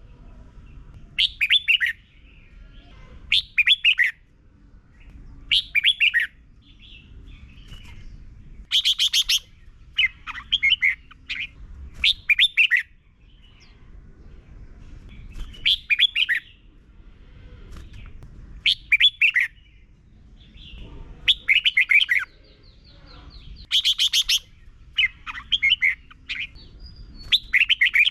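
Red-whiskered bulbul singing short, quick phrases of clear notes, about a dozen of them, each under a second long and spaced one to three seconds apart. A faint low rumble runs underneath.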